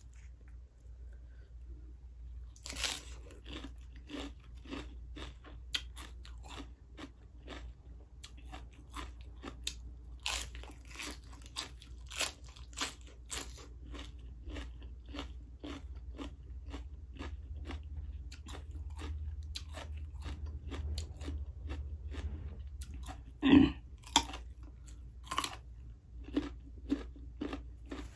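Crisp crunching and chewing of raw vegetables such as lettuce, as mouthful after mouthful is bitten and chewed, with one much louder crunch late on.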